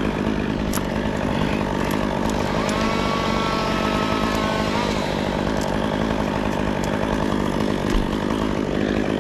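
Chainsaw running steadily, its engine held at a constant level throughout.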